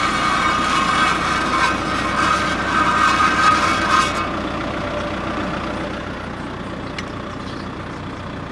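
An engine running steadily at idle, with a harsh grinding or scraping noise over it for about the first four seconds that then stops, leaving the engine alone.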